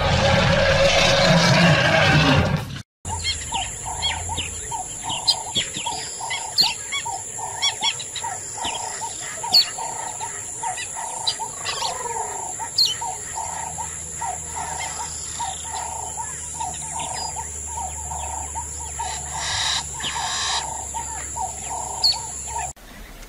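A lion snarls loudly for about three seconds. It then cuts off abruptly, and many birds chirp in short rapid notes over a steady high whine, with a lower call repeating about twice a second underneath.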